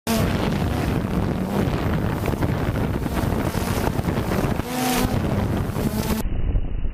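Steady, loud wind noise buffeting a microphone, a rushing rumble that starts abruptly. About six seconds in it turns duller.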